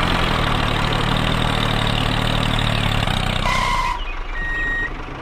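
Tractor engine running steadily, stopping after about three seconds. It is followed by a short electronic beep and then a thin, high steady tone.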